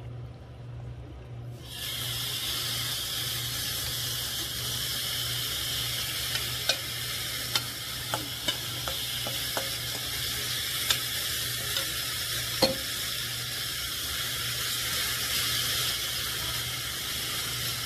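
Spicy red-marinated chicken dropped into a hot nonstick wok, sizzling suddenly about two seconds in and then frying with a steady sizzle. Sharp clicks and taps of the spatula and bowl against the pan come through the middle as the chicken is stirred.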